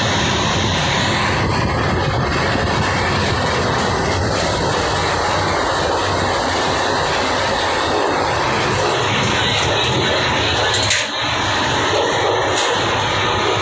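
Indian Railways sleeper-class coach running at speed: a loud, steady rumble of wheels on rails mixed with wind rushing through the open doorway and vestibule. A couple of sharp clicks come near the end.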